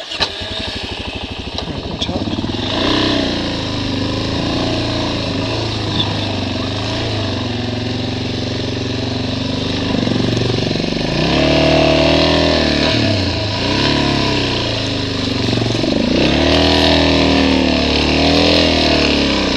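Motorcycle engine working at low speed over rough, washed-out ground. It is steady at first, then revs up and drops back several times in the second half as the rider picks a way through.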